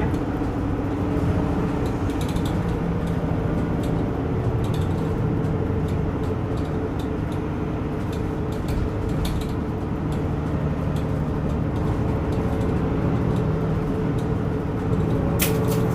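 Inside a route bus on the move: the steady drone of the engine and road noise, with light rattling clicks throughout and a couple of sharper clicks near the end.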